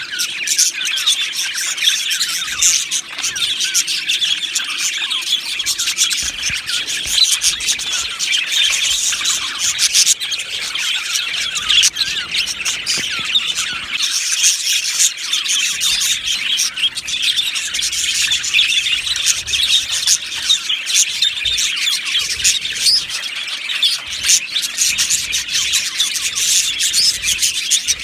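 A flock of budgerigars chirping and warbling together, a continuous dense chatter of many overlapping calls.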